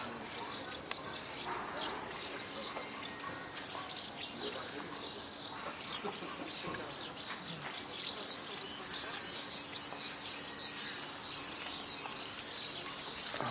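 A flock of small birds chirping: a dense, continuous stream of high chirps that grows louder about eight seconds in.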